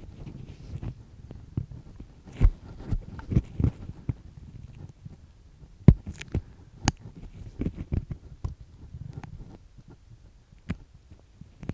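Earpick scraping inside an ear canal, recorded right at the ear: irregular scratchy strokes and sharp clicks over a low rumble, with two of the sharpest clicks about six and seven seconds in.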